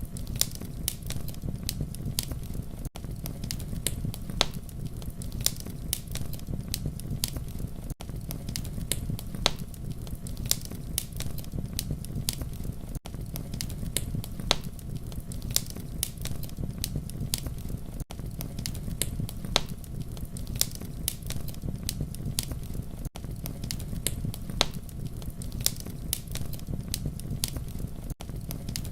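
Campfire burning, a steady low rumble under frequent sharp crackles and pops of burning wood. There is a tiny dip about every five seconds where the short recording loops.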